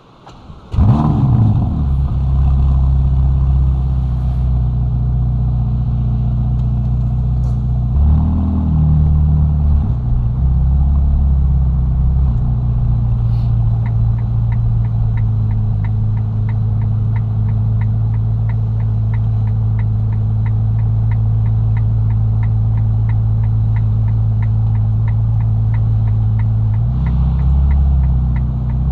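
Ferrari Roma's twin-turbo V8 starting up about a second in with a brief flare of revs, then settling into a steady idle. A short rise in revs comes around eight seconds in. From about fourteen seconds a fast, even ticking runs over the idle, and the engine note rises a little near the end.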